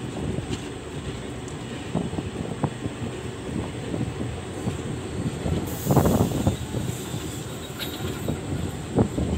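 Indian Railways passenger train running on the track, heard from on board: a steady rumble of the wheels with scattered clicks and knocks over the rail joints. The rumble grows louder and rougher for about a second, some six seconds in.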